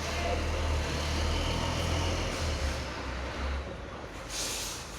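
Hino truck's diesel engine rumbling low and steady, dropping away after about three and a half seconds; a short hiss of air follows near the end.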